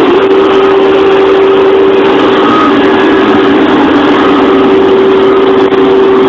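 A vehicle engine running steadily and loudly, with an even drone that holds one pitch.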